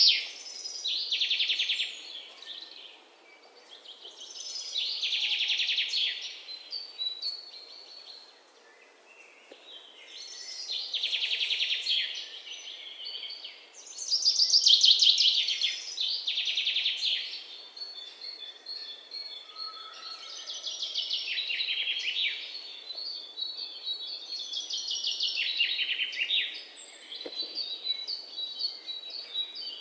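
Songbirds singing: loud trilled phrases about two seconds long, made of rapid notes, repeat every few seconds, with quieter runs of quick high chirps in the second half.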